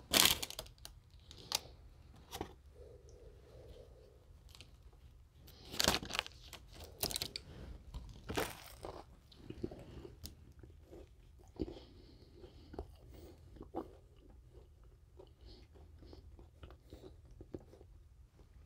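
A person biting into and chewing a burger stacked with breaded chicken nuggets. Loud crunching bites come right at the start, about six seconds in, and again around seven to eight seconds in, followed by quieter chewing with small crunches.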